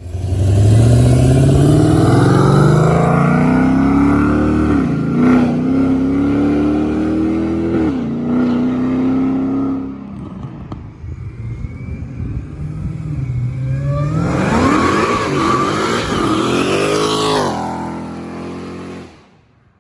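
Supercharged 6.2-litre Hemi V8 of a 2016 Dodge Charger Hellcat, fitted with American Racing headers and a full exhaust, accelerating hard. Its pitch climbs and drops sharply twice, as at gear changes. It eases off, then climbs again in a second hard pull before fading away.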